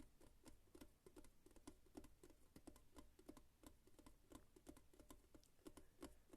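Quiet ASMR tapping on a hard object: a fast, uneven run of short knocks, several a second.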